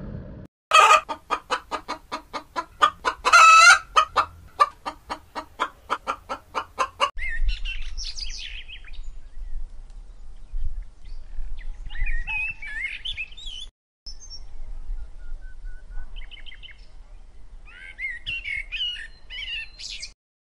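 A chicken clucking rapidly, about four clucks a second, with one louder drawn-out cackle a few seconds in. After about seven seconds the clucking stops and scattered high bird chirps follow.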